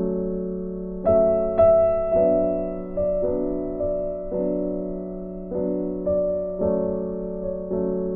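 Background piano music: slow, soft chords struck about once a second, each fading away, over a held low note.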